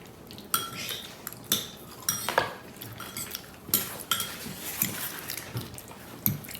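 Forks and spoons clinking and scraping against plates and bowls during a meal: scattered sharp clinks, a few ringing briefly.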